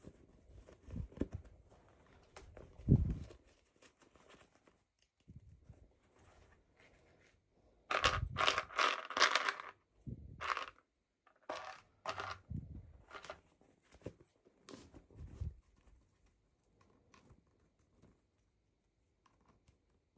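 Packaging being handled and torn open by hand: irregular crinkling and tearing, busiest from about eight to ten seconds in, with a few soft low thumps in the first three seconds. It trails off into near silence for the last few seconds.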